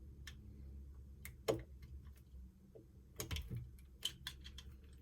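Scattered light clicks and knocks of small hard parts and tools being handled on a work surface, loudest about one and a half seconds in, with a cluster of clicks around three seconds in, over a faint low hum.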